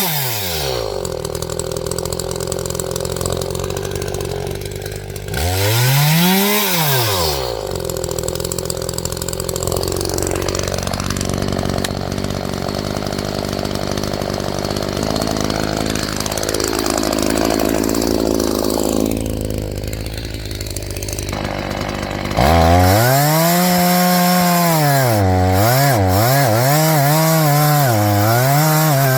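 Echo two-stroke chainsaw idling, revved once briefly, then run at high revs, its pitch repeatedly dipping and recovering as if the chain is loaded in cutting wood.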